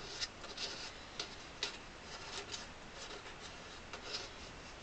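Faint, irregularly spaced small clicks and sticky ticks from runny glue being spread with a finger.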